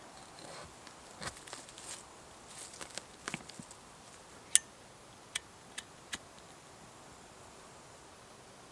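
Soft rustling and small handling clicks, then four short sharp clicks or pops a little under a second apart, over a faint steady background.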